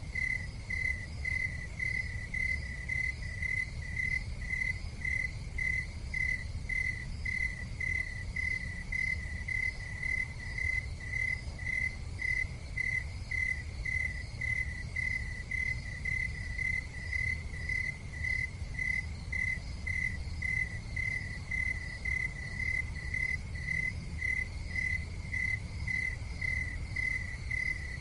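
A cricket chirping steadily, about two even chirps a second, over a steady low rumble.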